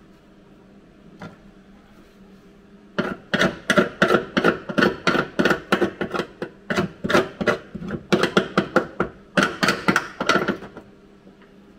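Hammer blows on sheet metal in quick runs, about three to four a second, with two short breaks, each blow ringing briefly.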